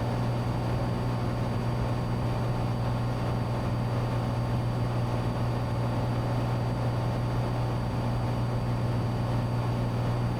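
Cessna 182T's six-cylinder Lycoming IO-540 engine and propeller droning steadily in cruise flight, heard as constant cabin noise.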